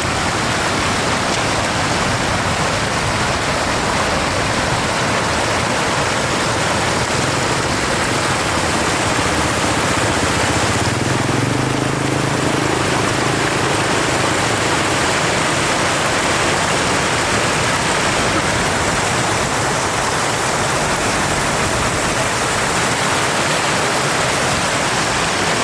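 Floodwater rushing steadily. About halfway through, a faint low hum shows briefly beneath it.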